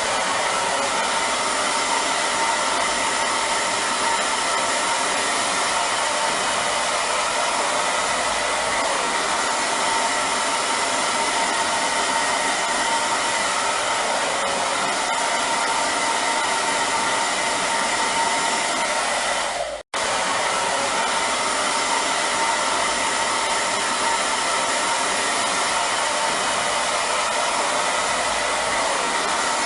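Hair dryer running steadily: a constant rush of blown air with an even whine on top. It cuts out for an instant about two-thirds of the way through, then carries on unchanged.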